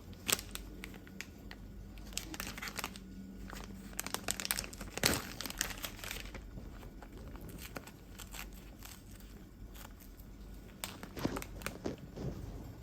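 Crinkling and rustling in irregular bursts, with scattered sharp clicks; the loudest bursts come just after the start, about five seconds in, and near the end.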